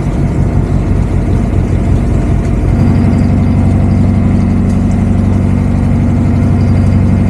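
Boat engine running steadily; about three seconds in its note grows louder and more even, as if the throttle were brought up.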